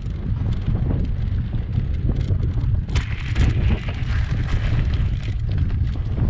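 Wind buffeting the microphone on a moving bicycle, a heavy steady rumble with scattered small clicks and rattles and a brief hiss about three seconds in.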